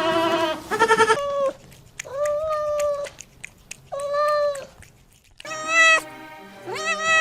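Domestic cat meowing repeatedly, about six separate meows, some drawn out to about a second.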